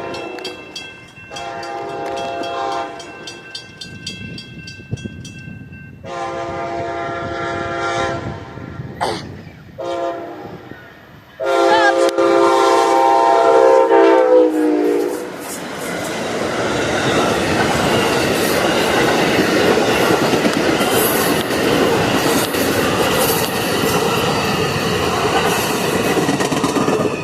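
Train approaching a grade crossing and sounding its horn in a series of blasts, the last long and loudest, about 12 to 15 seconds in. The train then passes close by with steady wheel and rail clatter.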